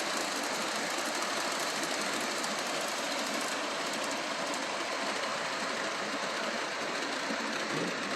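Model GG1 electric locomotive running along the track under throttle, a steady motor and wheel noise that eases slightly near the end.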